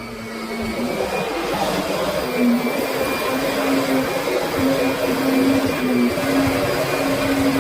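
Kirby Sentria upright vacuum cleaner running steadily, its motor hum stepping slightly up and down in pitch.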